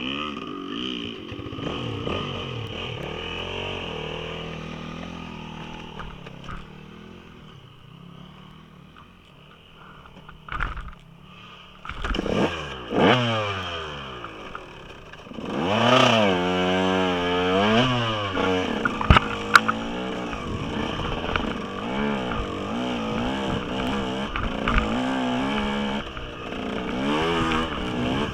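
Dirt bike engine revving up and down over and over, fainter at first and then louder with hard repeated revs from about halfway through, with a few sharp knocks and clicks.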